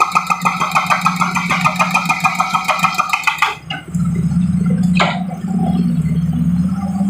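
Hydraulic breaker on an excavator hammering rapidly at broken road surface, about six or seven blows a second, over the machine's steady diesel engine. The hammering stops abruptly about three and a half seconds in, leaving the engine running with one sharp knock, and starts again near the end.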